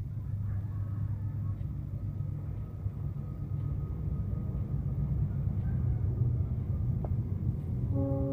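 Steady low outdoor rumble, like a distant engine or wind on the microphone. A pitched call begins near the end.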